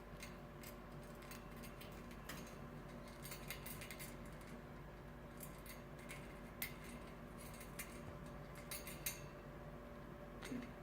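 Scattered small, sharp clicks and ticks at an irregular pace, over a faint steady hum.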